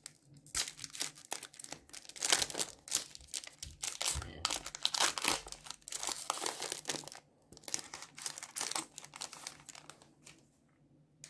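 Trading card pack wrapper crinkling and being torn open by hand, in irregular rustles that stop about ten seconds in.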